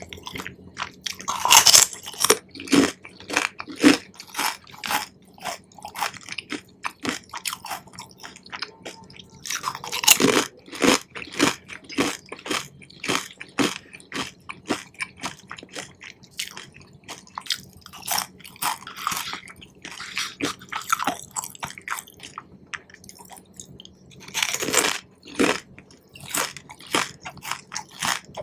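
Close-miked chewing of Korean cheese corn: chewy, crunchy mouth sounds at a steady pace of about two chews a second. Louder bites or mouthfuls come near the start, about a third of the way in, and near the end.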